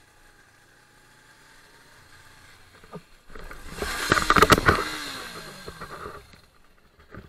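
Road vehicle crash: a quiet engine hum, then about three seconds in a sudden loud burst of clattering impacts and scraping that lasts about three seconds, with a falling pitch as it dies away.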